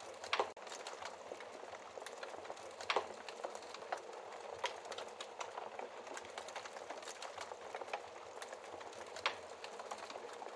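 Wood fire burning in a fireplace: a steady hiss of flames with irregular sharp crackles and a few louder pops from the burning logs.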